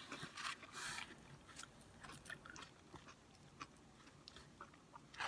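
A person chewing crunchy food: a crunching bite under a second in, then faint small clicks of chewing.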